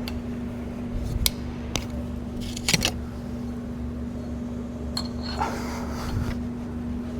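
Sharp metallic clicks and clinks of steel tooling being handled and fitted, as a fly cutter is loaded into the spindle of a boring and surfacing machine during a manual tool change: a few single taps, a quick cluster of clicks, then a short rattle. A steady machine hum runs underneath.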